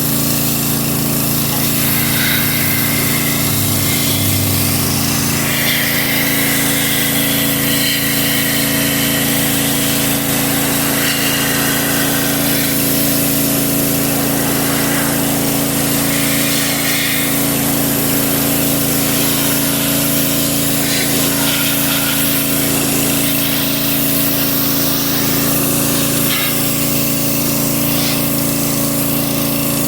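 Pressure washer running steadily with a constant hum, and its water jet hissing as it sprays a metal panel.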